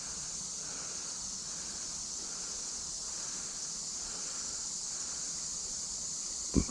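Steady high-pitched chorus of crickets or similar insects, unbroken throughout. A single sharp knock near the end.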